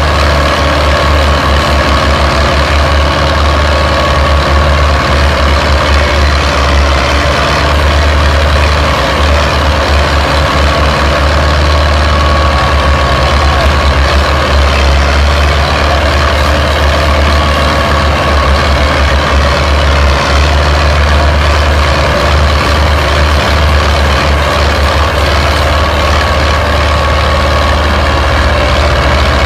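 Diesel tractor engines running, a loud steady drone that holds without a break.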